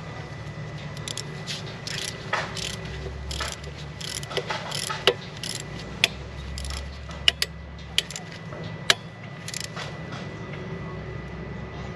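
Ratchet wrench clicking in short irregular runs as the injector hold-down bolt is tightened, with a few sharper, louder clicks about halfway through. A steady low hum runs underneath.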